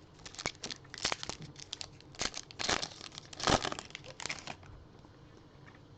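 Plastic wrapper of a trading-card pack crinkling as it is torn open and handled, in a run of crisp crackles that stops about four and a half seconds in.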